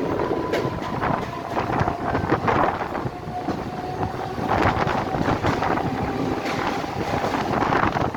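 Mumbai suburban local train running: a steady rumble and rattle of the moving carriage with a faint high whine held underneath, and wind buffeting the microphone.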